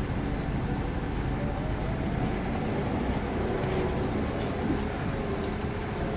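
Double-decker bus running, heard as a steady low rumble with a faint wavering whine over it.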